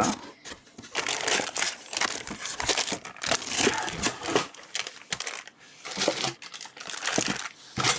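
Packaging crinkling and rustling as bagged powerboards are handled and lifted out of a shipping box, in irregular crackly bursts.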